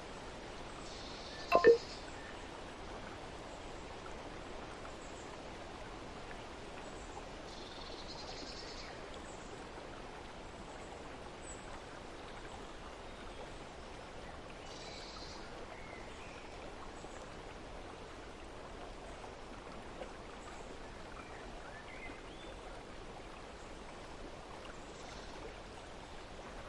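Steady outdoor nature ambience of softly running water, with a few faint high chirps. A short, sharp ping with a falling pitch sounds once, about a second and a half in, and is the loudest thing heard.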